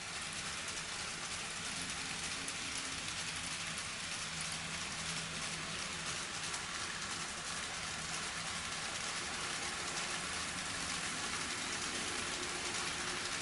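N scale model train running on the layout's track: a steady fine rattle of small wheels on rail joints, with a faint low motor hum underneath.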